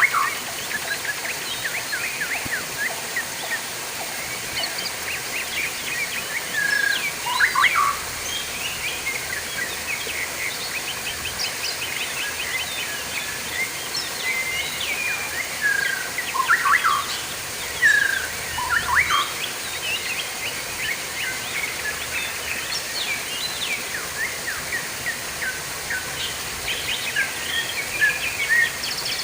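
Many small birds chirping and calling in quick, overlapping notes, over a steady hiss of running water.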